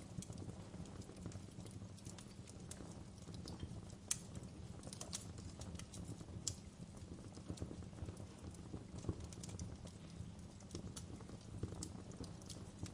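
Wood fire crackling in a fireplace: a low steady rumble with irregular sharp pops and snaps, the loudest about four seconds in and another about six and a half seconds in.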